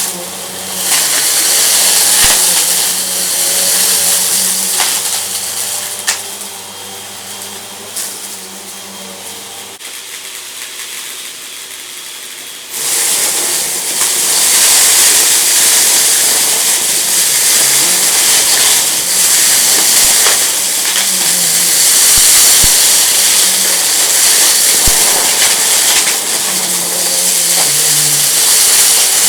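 Vacuum cleaner running over a rug and picking up crunchy debris, with scattered sharp clicks as bits are sucked up. About ten seconds in the motor hum drops away, and about thirteen seconds in it comes back suddenly, louder and with a strong hiss.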